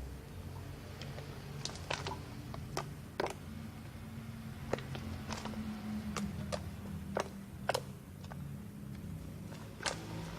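Homemade slime being squeezed and poked by hand, giving irregular sharp clicks and pops, about one or two a second, over a steady low hum.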